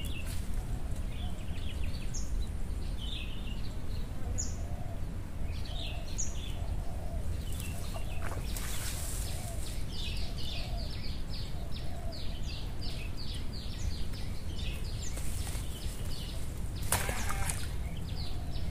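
Birds calling and chirping, with a run of quick repeated high notes through the middle, over a steady low rumble of outdoor noise.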